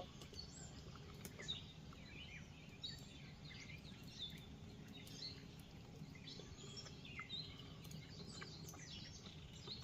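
Faint birds chirping, short scattered calls throughout, over a low steady background hum.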